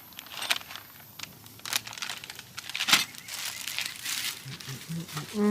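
Packaging being handled and crumpled: irregular crinkling, crackling and tearing, with sharp ticks. A low, steady hum with overtones starts right at the end.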